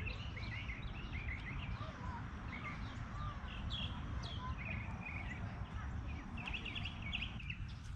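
Small birds chirping and calling over and over, above a steady low background rumble.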